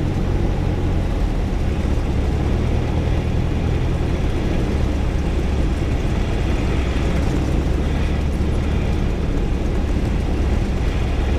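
Single-engine Cessna's piston engine running steadily, heard inside the cockpit as a constant hum of several even low tones under a hiss of airflow and noise.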